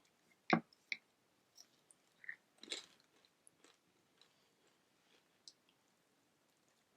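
Close-up eating sounds: chewing and small mouth clicks, with a sharp knock about half a second in and a short crunchy burst near the three-second mark.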